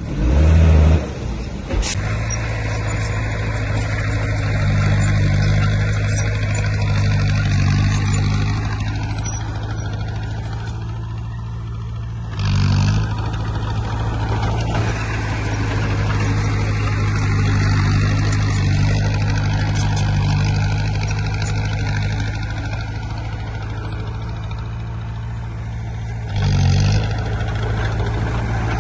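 Heavy diesel engine of earthmoving machinery running steadily at a low, even drone, with brief louder surges just after the start, about halfway through, and near the end.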